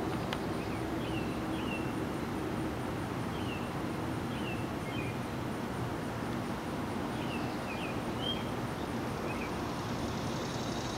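Outdoor ambience: a steady low rumble with a small bird giving short chirps every second or two, and a single click just after the start.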